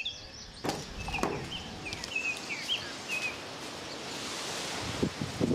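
Rural outdoor ambience: small birds chirping in short, quick high calls through the first three seconds or so, over a steady background hiss. A few soft knocks sound about a second in and again near the end.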